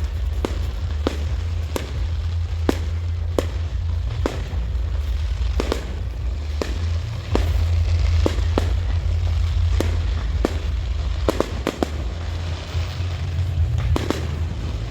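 Fireworks going off: a string of sharp bangs at irregular intervals, roughly one or two a second, over a steady low rumble.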